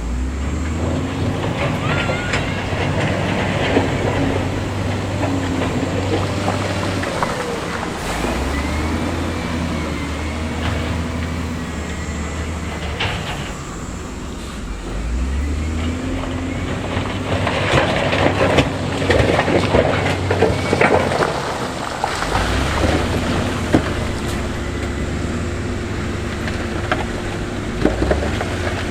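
Heavy construction machine's diesel engine working under load, its pitch rising and falling several times, with stones clattering and scraping, most heavily a little past the middle.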